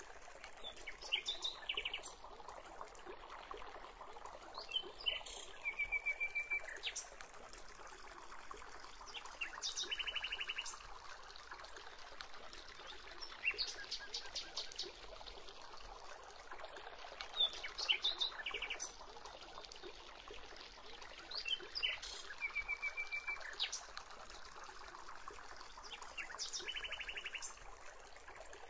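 Wild birds singing, short high phrases with fast trills repeated every few seconds, over a steady background hiss.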